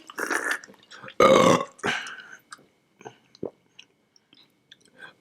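A person burping: one loud belch about a second in, followed by a few faint clicks.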